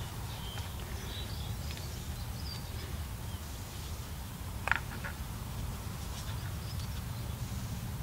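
Faint garden birds chirping in short high notes over a low steady rumble, with one brief sharp sound about halfway through.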